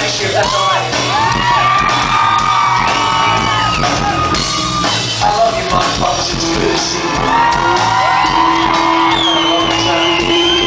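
Rock band playing live in a large hall, loud and steady, with long held notes that bend in pitch over the full band.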